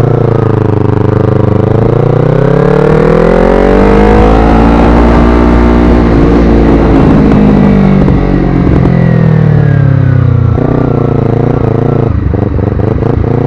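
Motorcycle engine pulling up through the revs for about four seconds, then easing off and winding down, with heavy wind noise on the microphone throughout.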